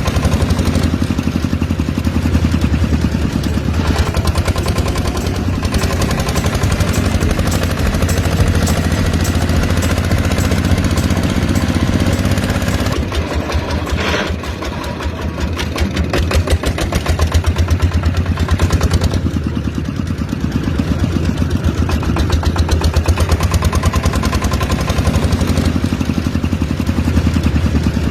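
Miniature diesel engine running steadily with a fast, even firing rhythm, its level dipping briefly about halfway through.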